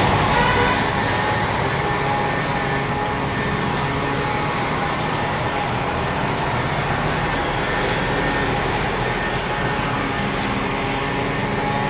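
Steady street traffic noise, vehicles running by, with a faint steady hum.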